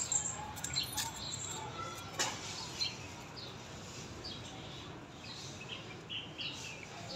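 Small birds chirping on and off in the background, short high chirps scattered through, with a few sharp clicks in the first couple of seconds.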